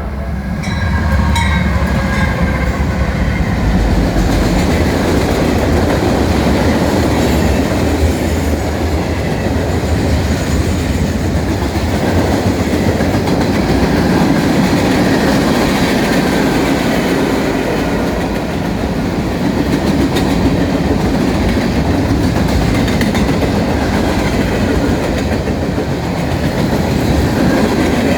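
Norfolk Southern freight train passing: the diesel locomotives' low engine rumble at first, then the steady rolling roar of the cars with wheels clacking over the rail joints.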